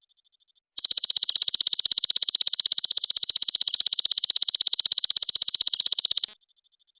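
A recorded animal's song of the kind used in cendet masteran: a loud, high-pitched, even trill of rapid pulses, about a dozen a second. It starts about a second in and cuts off suddenly near the end, with a faint trill of the same kind before and after.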